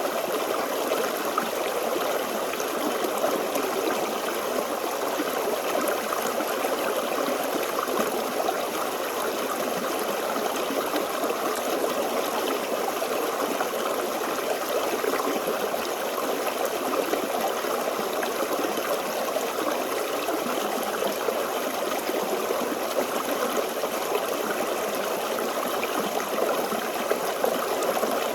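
Small forest stream flowing steadily, water babbling and trickling over stones.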